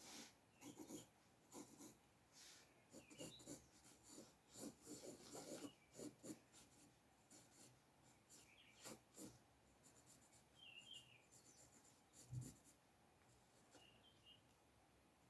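Sketching strokes scratching on paper: short quick strokes, busy through the first half and sparser later, with a soft low thump about twelve seconds in.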